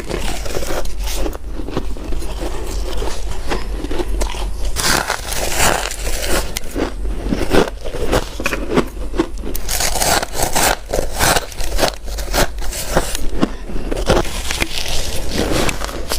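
Close-up bites and chewing of crunchy freezer frost, a dense run of crackling crunches with louder, harsher stretches of bites every few seconds.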